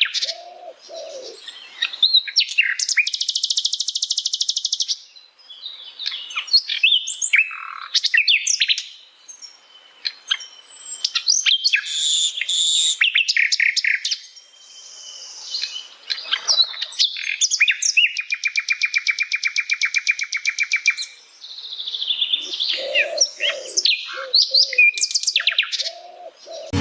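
Sikatan londo singing a varied run of chirps, whistles and slurred notes, broken by two long, rapid, dry trills about three seconds in and again around seventeen seconds in.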